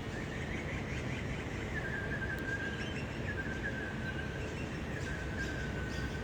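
A thin, steady whistling tone that sags slightly in pitch and breaks off briefly a few times, over a low background rumble.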